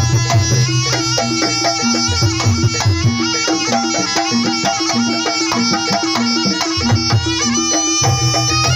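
Live Jaranan music: a reedy wind-instrument melody over hand drums and gong tones, with a low sustained tone that drops out for most of the middle and comes back near the end.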